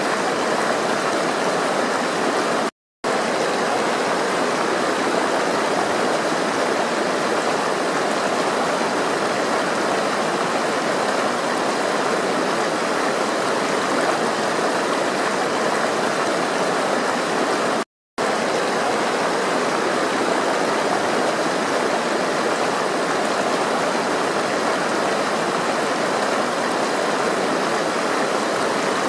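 Steady rush of flowing water. It cuts out to silence for a split second twice, about three seconds in and again about eighteen seconds in.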